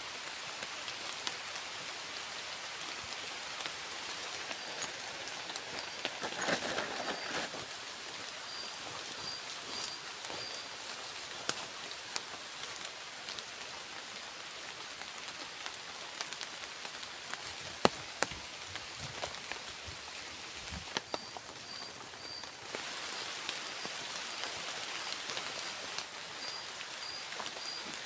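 Steady rain falling, with single drops now and then landing as sharp, louder ticks. A steady high-pitched whine and short, evenly repeated chirps run underneath.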